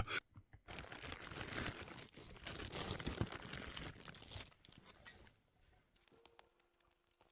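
Faint crinkling and scratching of plastic packaging being handled and picked at, in short irregular rustles for about four seconds, then near silence.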